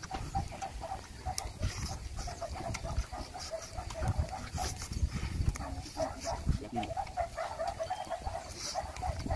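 Close, wet chewing and lip smacking as a man eats roasted alligator meat, with a steady run of short, irregular smacks and the tearing of meat by hand.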